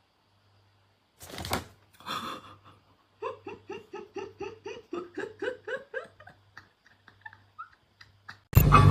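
A person laughing: two short outbursts, then a long run of quick pitched 'ha-ha' pulses, about four or five a second, that slowly tails off. Near the end a loud, steady rumbling noise cuts in suddenly.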